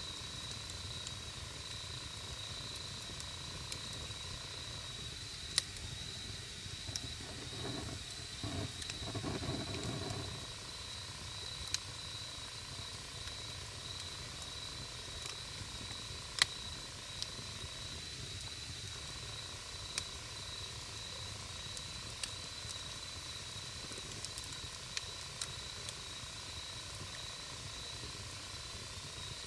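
Wood fire burning with a steady low hiss and sharp, isolated crackling pops every few seconds, the loudest about 16 seconds in.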